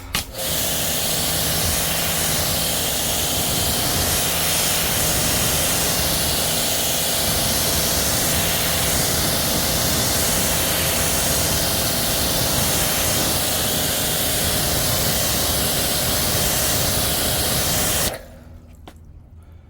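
Kränzle pressure washer spraying a jet of water to rinse foam off the truck's wheels: a steady, loud hiss of spray with the washer's pump humming underneath. It cuts off suddenly near the end.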